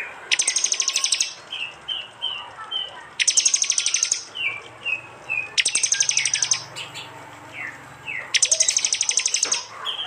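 Prinias (prenjak) calling: four bursts of rapid-fire chattering 'tembakan' notes, each lasting about a second and spaced a few seconds apart, with short high whistled notes between them.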